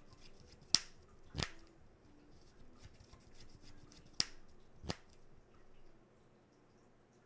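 Cards being handled and set down on the table during play: four sharp clicks in two pairs, about a second in and again about four seconds in, with faint rustling between them.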